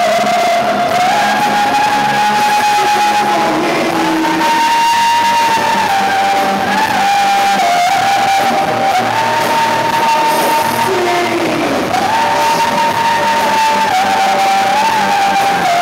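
Live rock music: a long held melody line in sustained, stepping notes over a full guitar-band backing.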